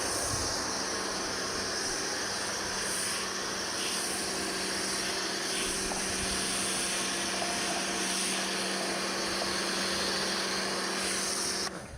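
Kärcher high-pressure washer running steadily, a motor hum under a wide hiss of spray, cutting off abruptly near the end.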